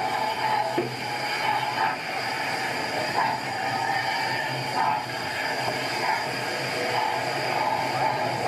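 Railway equipment running on track: a steady rail-running noise with a low hum and small clanks every second or so.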